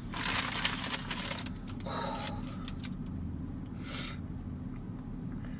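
A steady low hum, with a few short bursts of noise: the longest over the first second and a half, then briefer ones about two and four seconds in.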